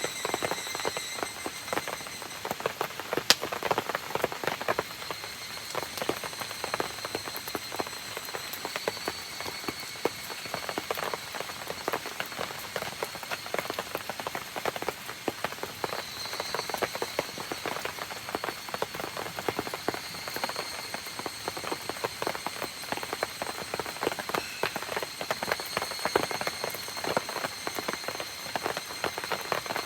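Rain pattering steadily mixed with the crackle of a campfire, one sharper pop about three seconds in, over a faint steady high-pitched trill in the background.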